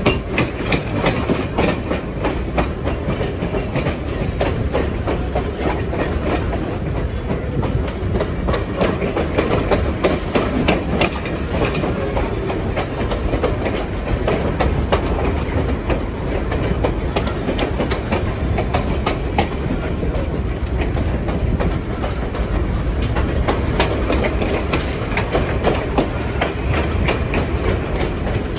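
Passenger train running along the track: a steady rumble of wheels on rail with frequent clicks and clacks.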